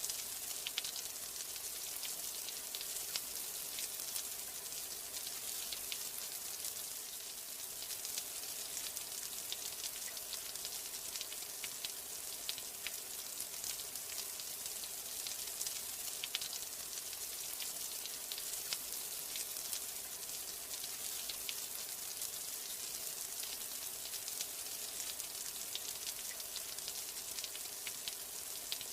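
Steady rain, a dense patter of fine drop ticks over an even hiss.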